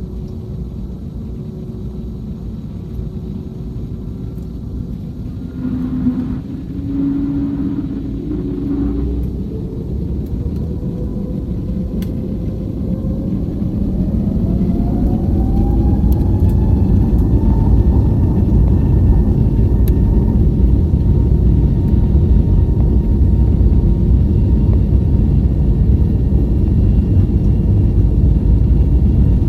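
Airbus A321neo's Pratt & Whitney PW1100G geared turbofan engines spooling up, heard from inside the cabin: a whine rises in pitch over several seconds, then a loud steady rumble as thrust builds for the takeoff roll.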